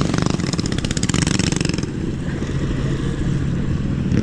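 A small motorbike-type vehicle running close by during a ride. Fast, even pulsing for the first two seconds or so gives way to a steadier, lower hum.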